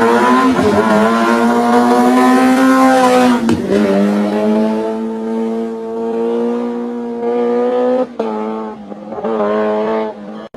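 Superbike engine revving up and held at high revs. The pitch dips briefly about three and a half seconds in and twice more near the end.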